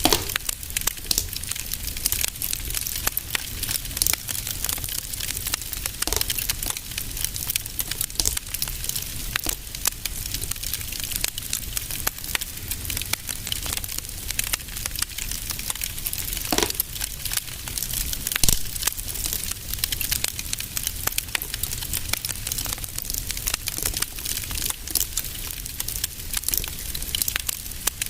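Fireplace fire crackling steadily, with dense small pops and a few louder snaps, over a low rumble.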